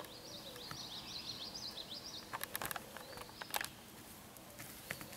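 A small bird twittering in a fast run of high chirps through roughly the first two seconds, with a shorter burst about three seconds in. A few sharp clicks and knocks, the loudest sounds here, come about halfway through.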